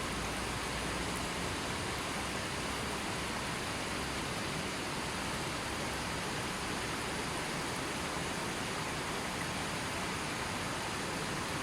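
Steady rushing and babbling of a gently flowing river stream, an even wash of water noise without breaks.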